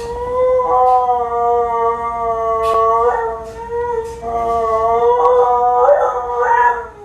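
A dog howling in one long, drawn-out howl that wavers slightly in pitch. About a second in, a second, lower voice joins in.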